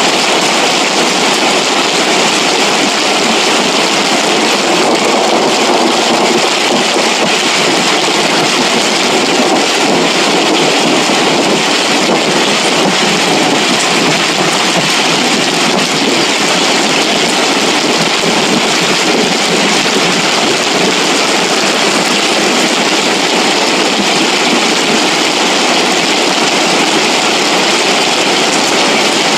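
Floodwater rushing down a wadi after heavy rain: a loud, steady rush of water that does not change.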